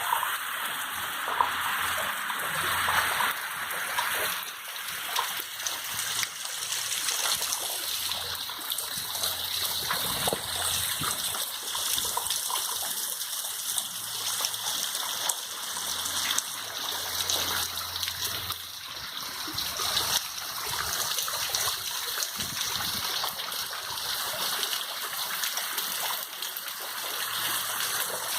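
Steady rain falling, a continuous hiss with many small drop splashes and ticks.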